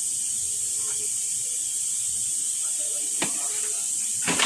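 Steady high-pitched hiss, with two short clicks, one about three seconds in and a louder one near the end.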